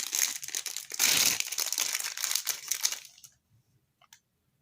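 Plastic packaging crinkling and rustling as it is handled, loudest about a second in and stopping about three seconds in; a couple of faint clicks follow.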